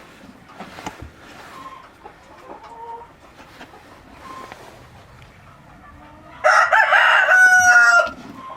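Chickens clucking softly, then a rooster crows once, loudly, for under two seconds near the end, the call ending on a long held note.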